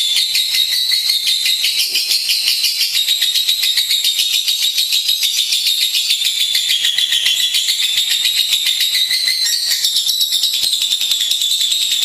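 Lovebird singing a rapid, unbroken chattering trill, high-pitched and continuous.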